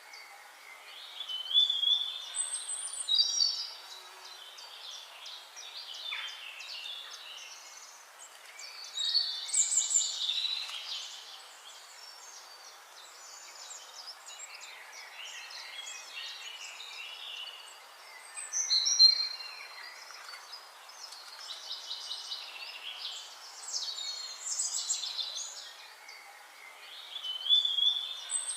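Small songbirds singing, with bursts of high chirping and warbling phrases coming and going every few seconds over a faint steady hiss.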